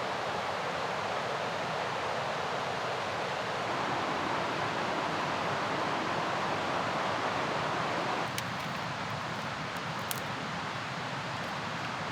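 Mountain river rushing, a steady wash of water noise that changes character slightly about eight seconds in, with a few faint clicks after that.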